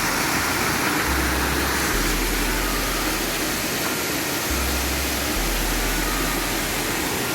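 Waterfall rushing, a steady even roar of falling water, with low rumble coming and going.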